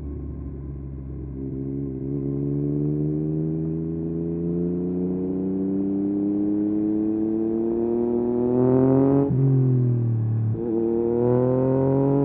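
Yamaha MT-09 SP's three-cylinder engine through a full Akrapovic race exhaust, pulling hard with its pitch climbing steadily for about nine seconds, then two short breaks in the note near the end as it changes gear before climbing again.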